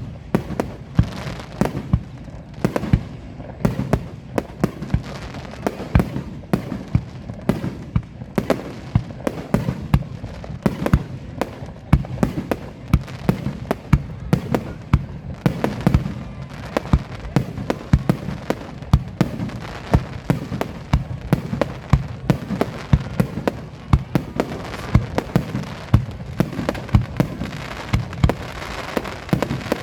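Fireworks going off in rapid succession: many sharp bangs a second, close by, over a continuous crackling rumble.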